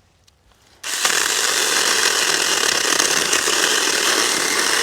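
Small battery-powered mini chainsaw starting about a second in and running steadily as it cuts into a pine knot, its chain slightly loose.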